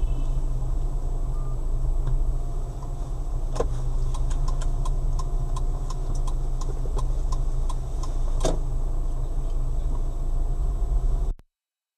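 Inside a car: a steady low engine and road hum, with a run of evenly spaced ticks, about three a second, through the middle and two sharper knocks. The sound cuts off suddenly near the end.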